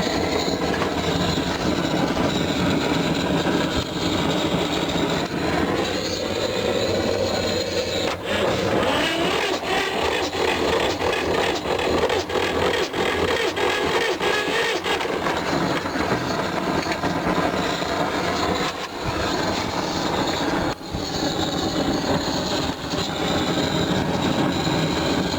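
The two-cylinder air-cooled diesel of a T-16 self-propelled chassis labouring through a start attempt with a steady mechanical rumble. From about 8 to 15 seconds in it takes on a fast, regular knocking. The engine is worn, and the owner suspects trouble in the piston group.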